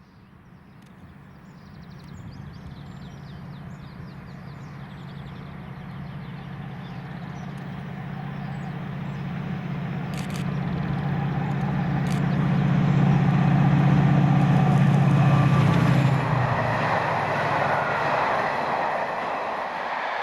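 Diesel locomotive approaching on the main line, its engine hum building steadily louder and dropping away about sixteen seconds in as it passes, followed by the rumble and clatter of the train rolling by on the rails.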